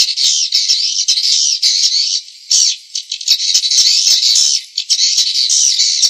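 Swiftlet calls played as a lure recording: a dense, high-pitched chattering of rapid chirps and clicks that overlap, with brief dips at about two, three and almost five seconds in. The recording has no low end, as if filtered to keep only the high tones.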